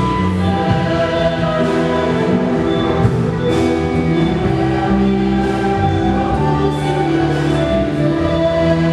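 Church choir singing a hymn in several parts, held notes changing from chord to chord.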